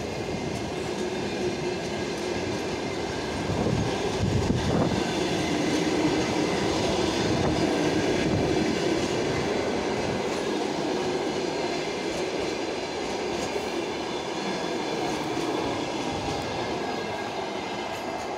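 Passenger coaches of a departing train rolling past, their wheels clattering steadily on the rails.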